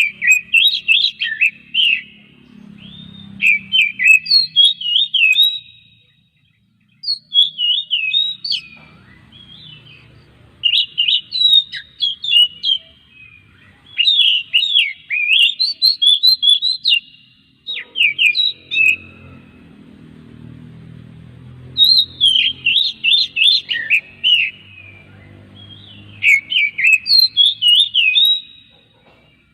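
Oriental magpie-robin (kacer) singing: loud, fast runs of sharp, varied whistled notes in phrases of a few seconds, with short pauses between them. A faint low hum sits underneath at times.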